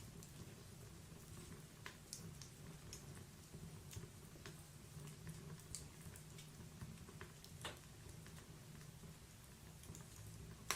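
Wood-burning fire in a fireplace: faint, scattered crackles and pops from the logs over a low steady rumble, with one sharper pop near the end.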